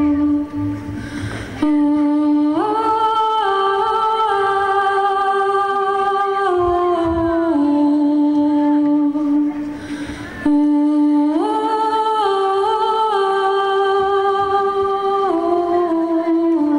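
A slow melody hummed or sung in long, steady held notes that move in steps, with a short pause between two phrases.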